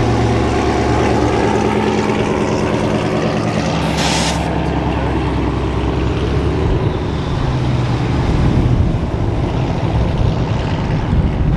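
A car engine running steadily close by, an even low drone that shifts slightly a few seconds before the end, with a brief hiss about four seconds in.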